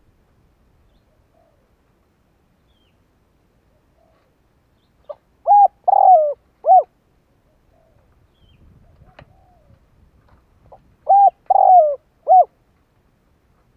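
Spotted dove cooing: two three-note coos about five and a half seconds apart, each a short note, a longer wavering note and a short closing note. A few faint short coos come between them.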